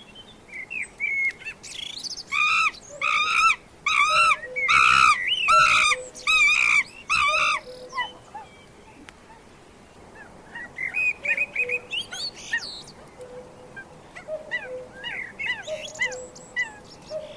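A bird calling: a series of about ten loud, short, arching calls, roughly two a second, then a run of softer, quicker chirps near the end.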